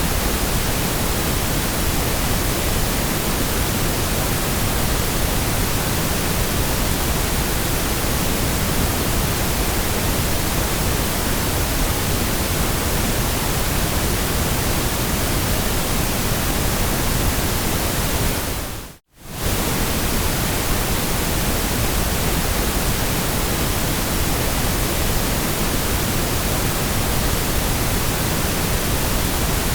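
Steady white noise, an even hiss spread across the whole range from deep to high. About two-thirds of the way through it fades out to near silence for a fraction of a second and comes straight back, like the seam of a looped track.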